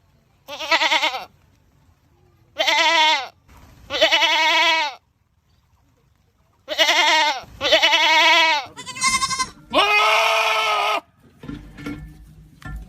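Goats screaming: about seven loud, quavering bleats in quick succession, some in pairs with short gaps between them, the calls ending a little before the end.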